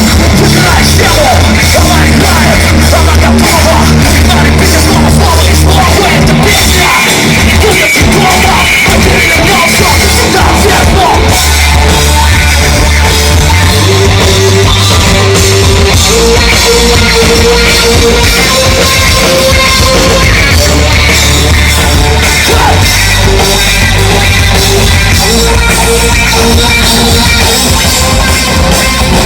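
Loud live rock music: a band with a drum kit and heavy bass playing continuously, with some sung or shouted vocals.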